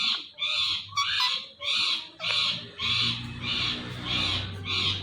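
Indian ringneck parrot squawking over and over, about ten harsh, even calls at roughly two a second.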